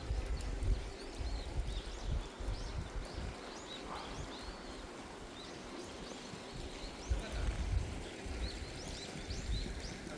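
Small birds chirping repeatedly in short high calls, over an irregular low rumble.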